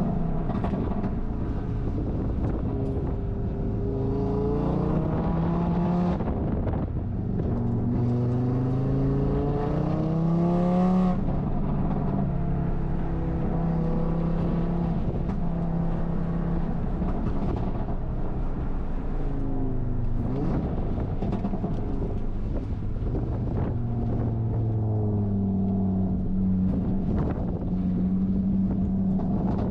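Audi RS3 race car engine under hard throttle through several runs. The pitch climbs steadily and then drops sharply, most clearly around 6 and 11 seconds in, with another rise toward the end, over constant road and wind noise.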